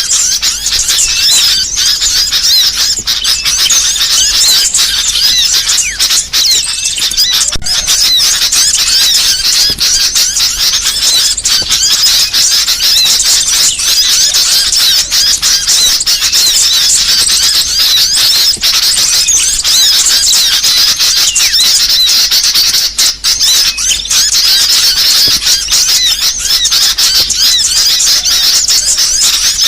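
A small songbird singing continuously: a dense stream of rapid, high-pitched chirps and short twittering trills with no pauses, played as a tutor and lure song for caged birds.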